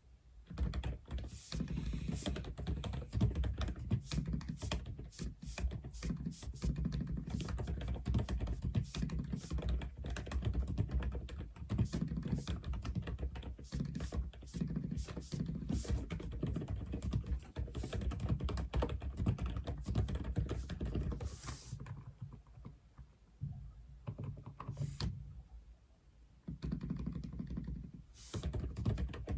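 Continuous typing on an Aula F87 mechanical keyboard: a quick, dense run of keystrokes that slows to a few scattered presses for a few seconds near the end, then picks up again.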